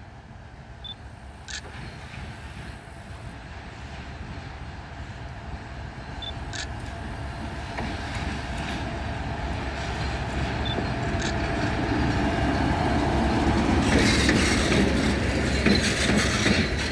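Freight train approaching, its low rumble growing steadily louder until it passes close by, then stopping abruptly.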